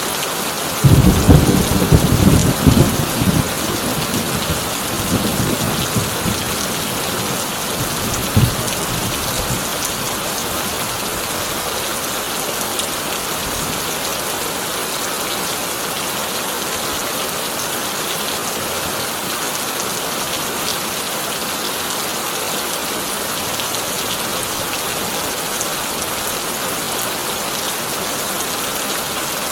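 Heavy rain falling steadily on a tin roof. About a second in, a loud thunderclap breaks and rumbles away over several seconds, with a shorter crack a few seconds later.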